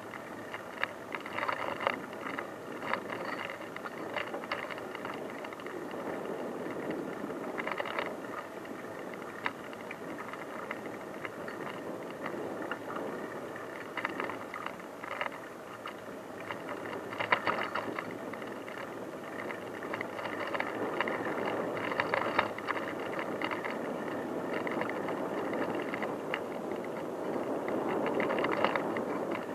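Bicycle riding over an unpaved track: steady tyre rolling noise with frequent rattles and clicks from the bike.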